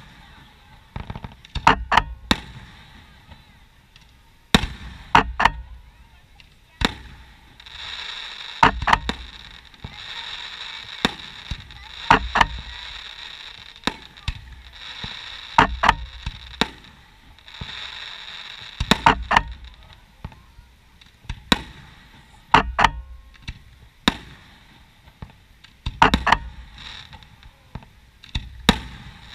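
Aerial firework shells bursting: an uneven series of sharp bangs, one every second or two. A spell of steady hissing runs through the middle.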